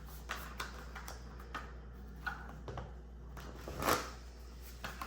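Tarot cards being handled: scattered short clicks and slides of card stock, with a louder swish about four seconds in.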